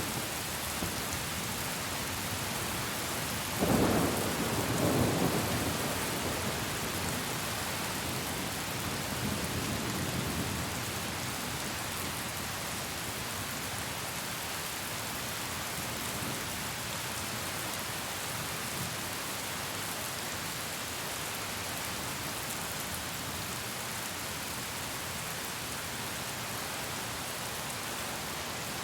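Steady rain with a loud rumble of thunder starting about three and a half seconds in and fading over a couple of seconds, then a fainter rumble around ten seconds in.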